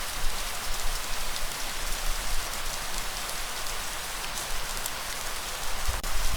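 Steady heavy rain, a dense hiss of many fine drop impacts, with a low rumble underneath.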